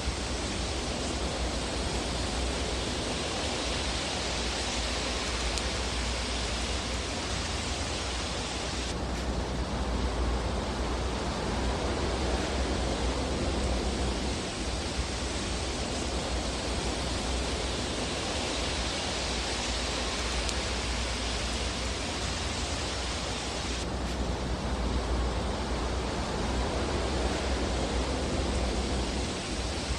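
Fireplace ambience: a steady rushing hiss with a low rumble underneath, and no distinct crackles standing out. The hiss swells slowly and drops abruptly twice, about nine seconds in and again near twenty-four seconds.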